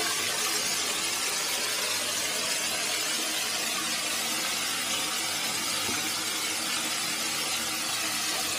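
Steady, even rush of water falling at a small woodland waterfall.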